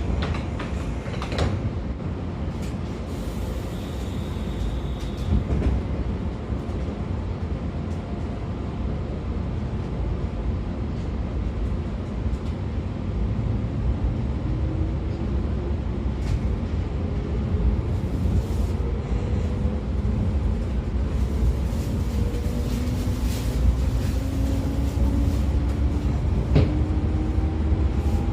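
Inside a 113 series motor car: the steady rumble of the train running on the rails, with scattered clicks. From about halfway, the whine of the MT54 DC series-wound traction motors and gears rises steadily in pitch as the train accelerates.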